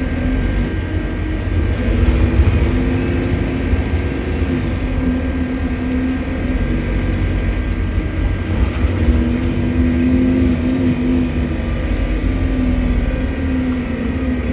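Bus diesel engine running under way, heard on board as a steady rumble with a constant whine and a faint high whistle that rises and falls a few seconds in. This is the strange turbo noise taken for a leaking turbocharger.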